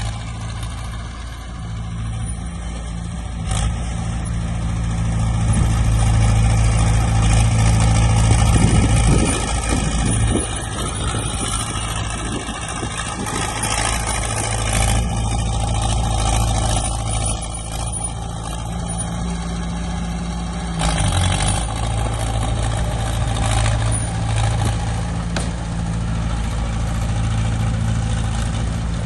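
Diesel engine of heavy earthmoving machinery running under load, growing louder for a few seconds near the middle, with a few short clanks.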